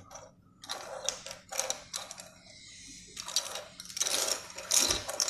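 Loose plastic pieces of a disassembled 3x3 puzzle cube clicking and clattering against each other as they are handled, in irregular clusters of small clicks.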